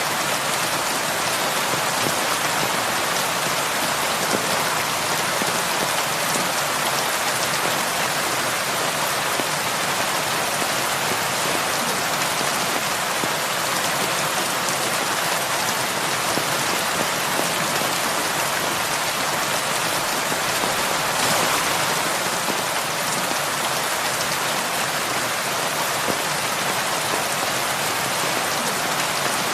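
Heavy rain falling steadily, a dense even hiss of drops on surfaces with no gaps or thunder.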